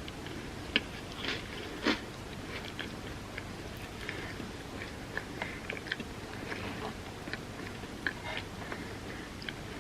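Close-miked eating sounds: a person biting and chewing a Biscoff cookie-butter ice cream sundae, with lots of small wet clicks and a few sharper crunches or clicks about one and two seconds in and again near the end.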